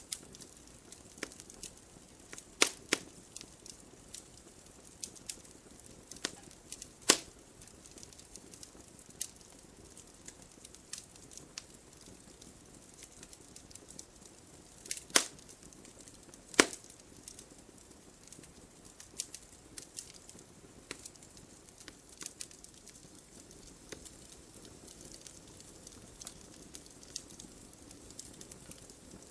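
Wood fire in a fireplace crackling: irregular sharp pops and snaps of burning logs over a faint hiss, with a few louder pops.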